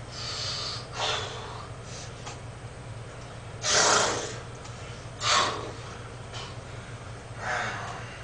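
A man breathing out hard in short, forceful breaths of exertion, five of them a second or two apart, the loudest about four seconds in, while working through a set of dumbbell flies.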